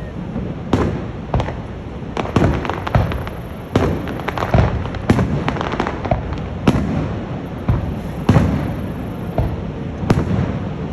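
Fireworks bursting overhead: a string of sharp bangs every second or so, with quick crackling clusters among them, over a steady low rumble.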